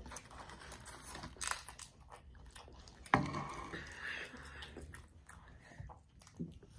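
Close-up chewing and biting of French fries, with small crunches and crackles. About three seconds in there is one sharp knock, the loudest sound here.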